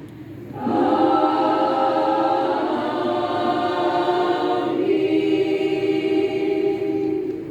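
Church congregation choir singing long held chords: the voices swell in about a second in, move to a new chord near the middle and hold it, fading near the end.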